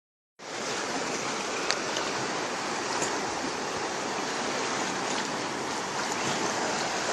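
Steady rush of sea water, waves washing at the shore, with a single sharp click about a second and a half in.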